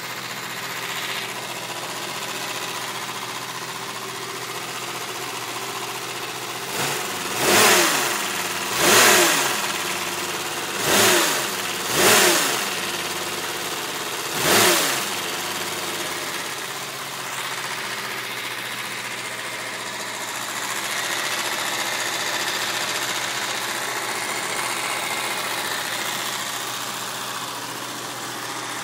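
BMW E36 M3 straight-six engine idling, revved in five quick blips between about 7 and 15 seconds in, each rising and falling back, then returning to idle. It carries an unusual noise that appeared after a hard high-speed run along with a burning smell, whose cause the owner does not know.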